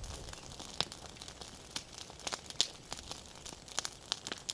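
Campfire crackling: irregular sharp pops and snaps of burning wood.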